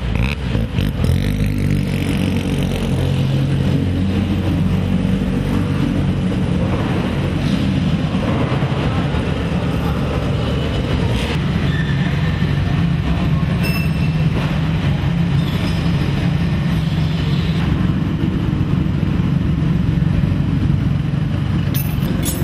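A car engine idling steadily, with a low, even note that holds throughout and a couple of short sharp clicks about two-thirds of the way in and near the end.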